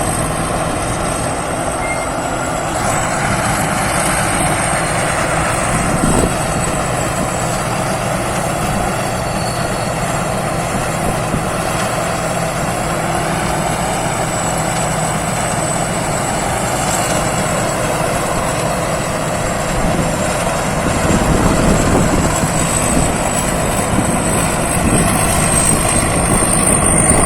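Thai Seng Yont rice combine harvester running steadily under load while harvesting, its engine drone overlaid by a steady high-pitched whine.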